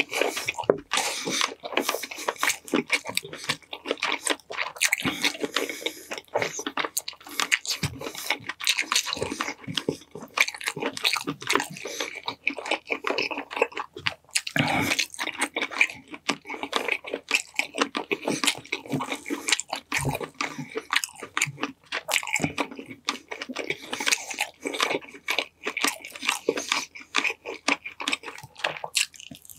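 Close-miked mukbang chewing of honey-glazed chicken drumsticks and olives: wet smacking and crunching, with a dense run of rapid mouth clicks.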